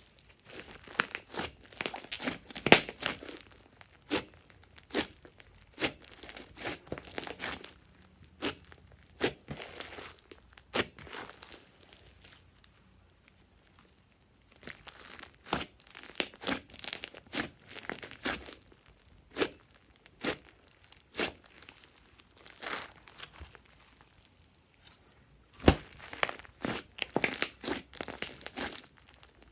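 Hands kneading and stretching glossy slime, giving irregular sticky clicks and crackling pops, with a pause of about two seconds near the middle.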